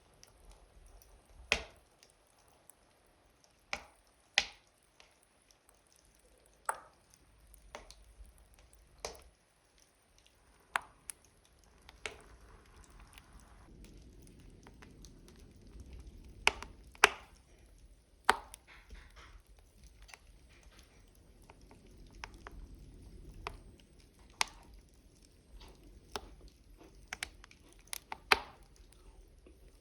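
Wood logs burning in a stove, crackling with irregular sharp pops, the loudest a pair about 17 seconds in, over a faint low rumble.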